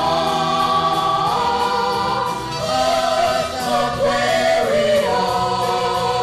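Music: a vocal group singing held notes in harmony, moving to a new chord every second or so, without clear words.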